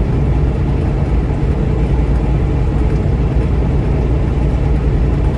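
Steady low engine and road rumble inside a moving vehicle's cab, unchanging throughout.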